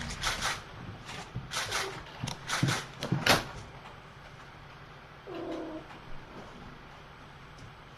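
Cats at play: a quick series of short scratchy rustles through the first three and a half seconds, then a single short mew a little after five seconds.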